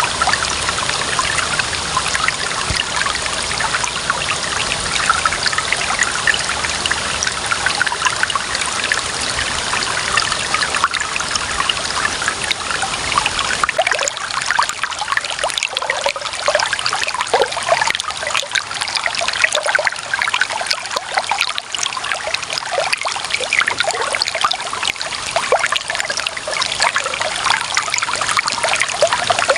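Clear running water trickling and gurgling in a steady stream, with many small splashes. About halfway through, the low rumble underneath drops away and the gurgles stand out more clearly.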